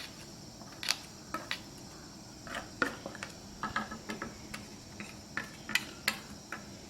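Scattered light metal taps and clinks of a utensil against a pan and container, about a dozen spread over several seconds, as flour breading is spooned into the hot oil to start a gravy roux.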